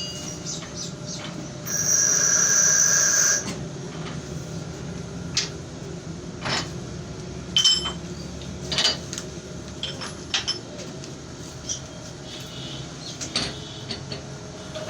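Metalworking machine humming steadily, with a loud high-pitched metal squeal about two seconds in that lasts about a second and a half, followed by scattered short metallic clicks and taps.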